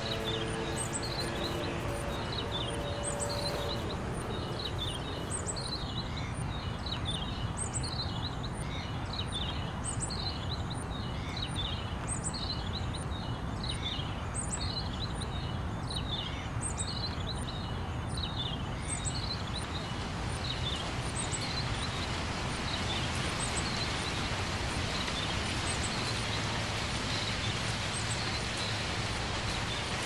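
A bird chirping over and over, short high calls about one to two a second, over a steady rushing background noise. The chirps die away about two-thirds of the way through as the rushing noise grows brighter. A held musical tone fades out in the first few seconds.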